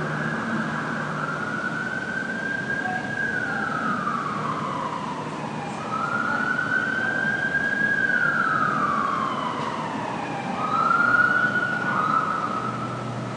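Police car siren on a slow wail: one tone rising and falling about every five seconds, the last rise held steady near the end. Steady background noise lies underneath.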